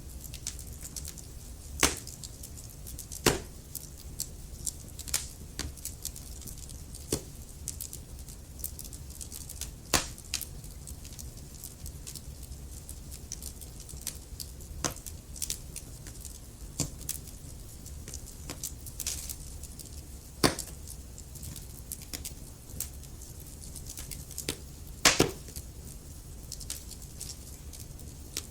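Logs burning in a fireplace, crackling with irregular sharp pops over a steady low rumble of flame; a handful of pops, about two seconds in, near three seconds, at ten, twenty and twenty-five seconds, are much louder than the rest.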